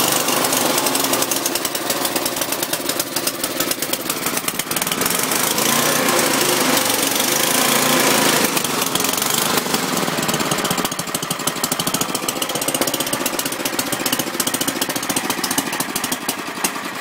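Murray Euro Series snowblower engine running just after a cold start, firing rapidly with an uneven level that sags near the end. It runs rough, which the owner puts down to bad gas.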